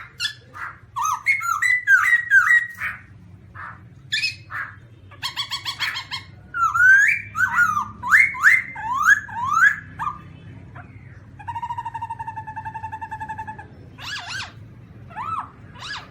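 Black-throated laughingthrush calling: a rapid run of whistled notes, then loud, rising slurred whistles, then a steady, buzzy, rattling call of about two seconds, and a few short notes near the end.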